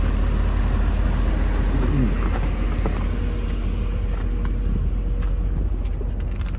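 Vehicle engine running steadily, a low drone that cuts off suddenly at the very end.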